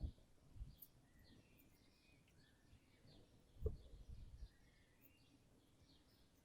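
Faint bird chirps repeating over quiet outdoor background, with a few soft low thumps, the loudest about halfway through.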